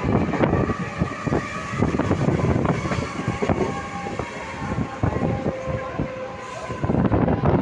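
Mumbai suburban local train running at speed, heard from on board: a steady rumble of wheels on rails with irregular clattering knocks and rattles, and a thin steady whine over it.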